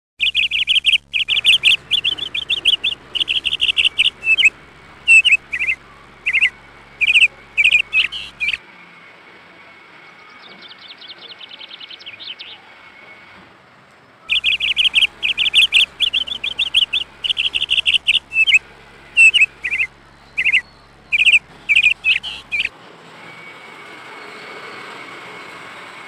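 Birds chirping in quick runs of high chirps, in two stretches of about eight seconds with a pause between them, during which a softer fast trill rises and falls.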